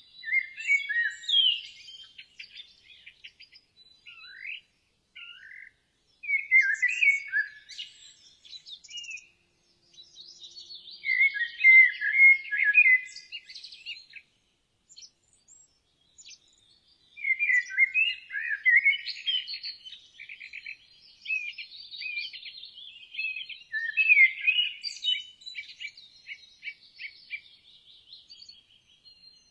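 Small birds chirping and singing in bursts of quick, high, gliding phrases with short pauses between them.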